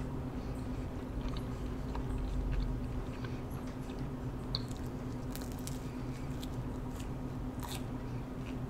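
A person chewing pizza crust, with soft wet mouth sounds and scattered small clicks over a faint steady hum.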